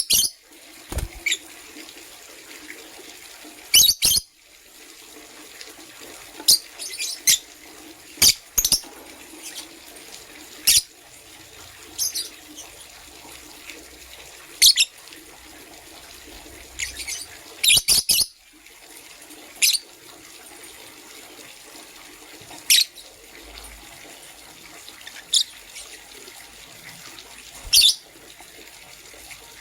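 Lovebirds giving short, sharp high chirps, singly or in quick pairs, every second or two over a steady background hiss.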